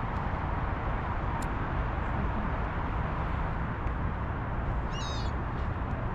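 Steady low outdoor rumble, with a single short, rapid chattering bird call about five seconds in.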